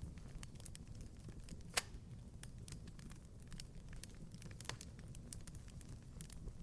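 Wood fire crackling in a fireplace: a low steady rumble with scattered sharp pops, the loudest just under two seconds in and another near five seconds.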